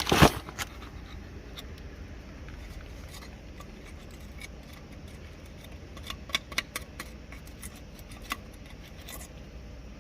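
A sharp knock right at the start, then scattered light metallic clicks and clinks, bunched about six to seven seconds in, as metal parts and tools are handled during a brake pad and rotor job.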